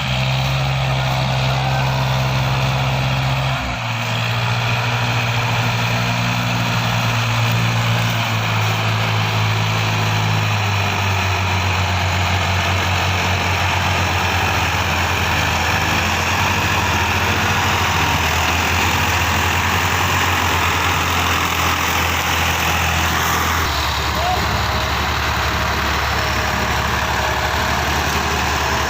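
Tractor diesel engine running steadily under a heavy load, its deep note dropping a step lower three times.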